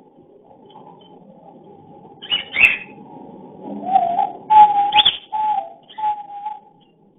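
Cockatiel mating calls: two short harsh chirps, then a run of four or five low, raspy whistled notes that stop shortly before the end.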